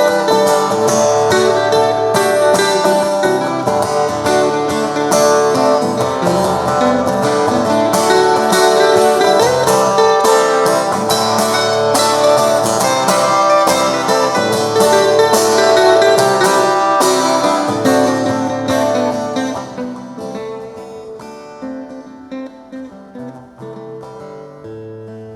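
Instrumental guitar playing: dense, busy picked and strummed notes that drop to a noticeably quieter, sparser passage about 19 seconds in.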